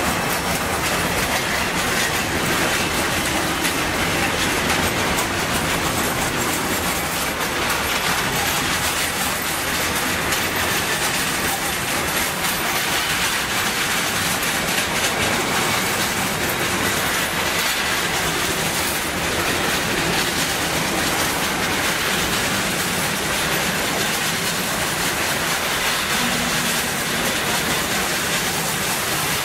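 Container wagons of a long intermodal freight train rolling past: a steady rumble with the clatter of wheels over the rails.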